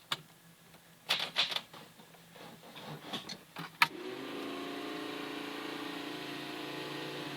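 Keys and small clicks, then about four seconds in a steady electric whirr comes on and holds: the Mustang Cobra being switched on just before the cold start.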